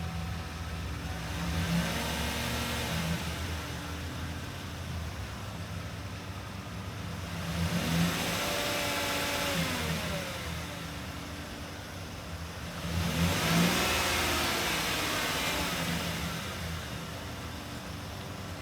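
2020 Chevrolet Express 2500 van engine idling and revved three times. Each rev rises and falls back to idle, and the middle rev is held for about two seconds.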